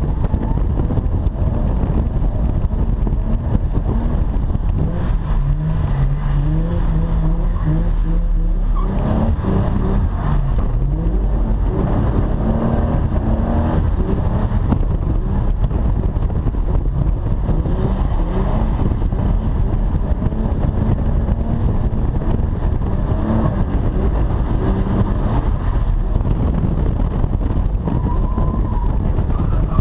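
Holden VY Commodore ute engine under hard throttle while drifting on a wet skid pan, its pitch climbing and dropping over and over as the revs rise and fall.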